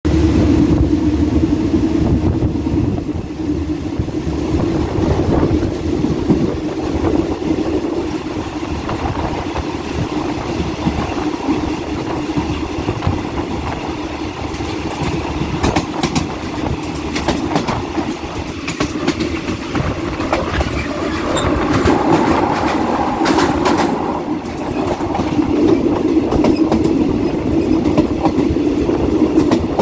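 Steady running noise of a passenger train heard from on board, the wheels rumbling on the rails with a constant low drone. Through the middle stretch come many sharp clicks, clickety-clack over rail joints.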